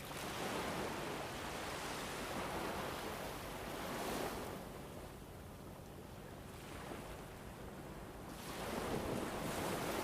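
Winter wind blowing in slow gusts that swell and die away, two big surges about four seconds apart.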